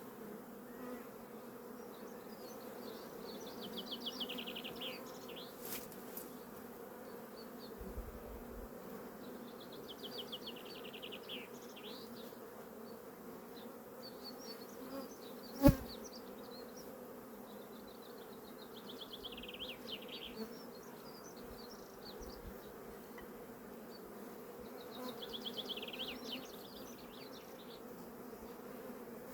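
Steady hum of a honeybee colony buzzing in an opened hive. Several short rasping sounds and one sharp knock a little past the middle.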